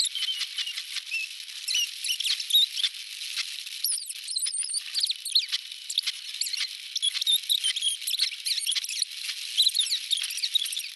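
Field audio sped up eightfold with the time-lapse, turned into a dense, high-pitched chatter of squeaks, chirps and clicks.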